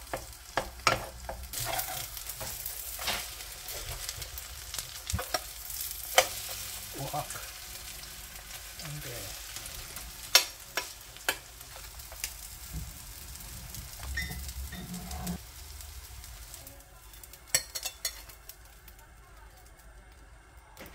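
Food sizzling in a hot pan, a steady frying hiss, with frequent sharp clicks and scrapes of a utensil stirring and turning it.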